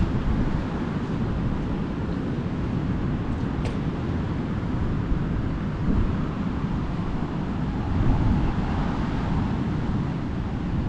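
Steady wind buffeting the microphone over the wash of rough ocean surf, a constant low rumble with a slight swell about eight seconds in.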